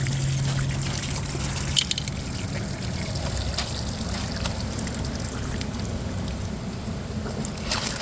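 Rainwater trickling steadily out of the opened outlet valve of a full IBC tote. A low hum stops about two seconds in, with a short click.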